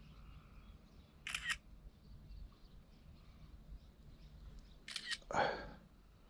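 Camera shutter clicks: a short double click about a second in and another about five seconds in, followed right after by a louder brief rustle.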